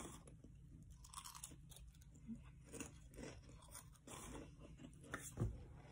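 Faint crunching and chewing of a chip in the mouth, in irregular bites, with one louder crunch near the end.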